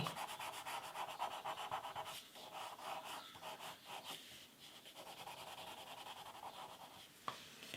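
Wax crayon rubbing on paper in quick repeated colouring strokes, faint and thinning out after about halfway.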